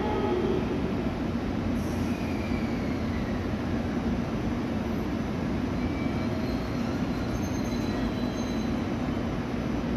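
JR Kyushu 885 series limited express electric train moving slowly along the station platform. A steady low hum runs throughout, with faint high squealing tones now and then.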